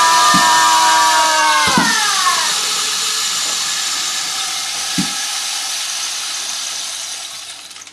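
A loud rushing hiss with several whistling tones sounding together, which slide down in pitch and stop about two seconds in; the hiss then slowly fades away.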